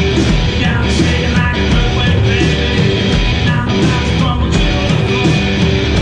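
Live rock band playing loudly: distorted electric guitar, bass and drums.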